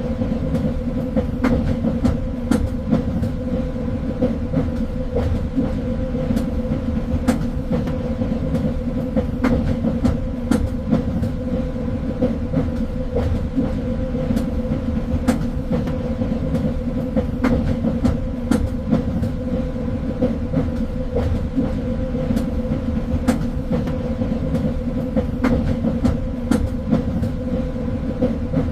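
Train running along the track: a steady rumble with a constant low hum, broken by irregular sharp clicks and knocks of the wheels on the rails.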